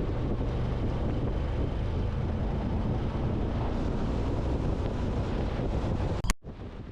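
Wind rushing over the microphone with a motorcycle engine running underneath, heard while riding. The sound cuts off abruptly near the end.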